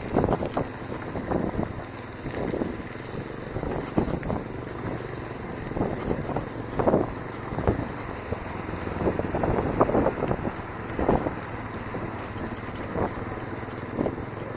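Bicycle riding over a rough, muddy dirt trail: a steady rumble of tyres and wind buffeting the microphone, with irregular knocks and rattles as the bike jolts over bumps.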